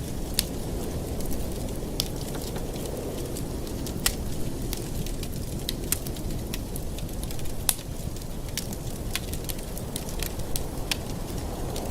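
Wood fire burning in a fireplace: a steady low rushing sound with irregular sharp crackles and pops, several a second at times, the loudest about four and eight seconds in.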